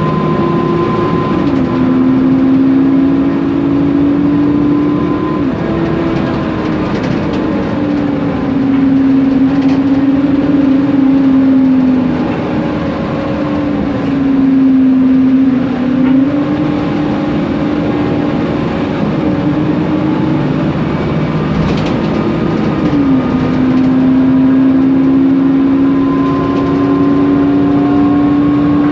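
Ride aboard a Mercedes-Benz Conecto NGT compressed-natural-gas city bus: its engine and loud cooling fan drone steadily. The drone's pitch shifts down and up several times as the bus changes speed.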